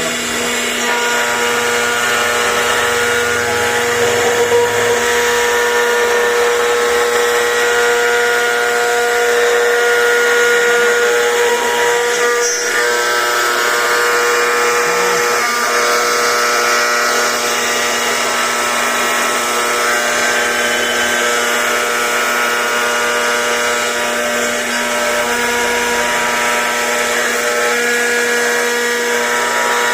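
CNC router running steadily while it carves, its spindle giving a constant whine over the cutting noise.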